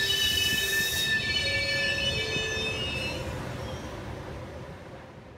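A train's wheels squealing in several high, shifting tones as it moves, the squeal dying away after about three seconds while the train noise fades.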